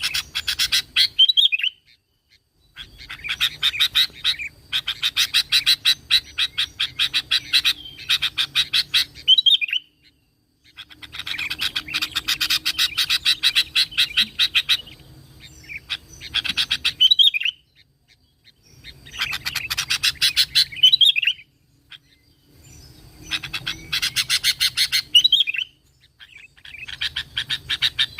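Sooty-headed bulbul (kutilang) singing in about six long bouts of very fast chattering notes. Each bout ends in a quick slurred down-sweep, and short pauses fall between bouts.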